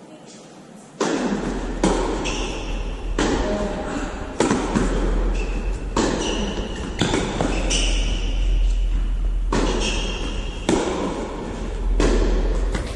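Tennis rally: a ball struck by rackets and bouncing on the court, a sharp hit about every second or so, with short high squeaks between hits.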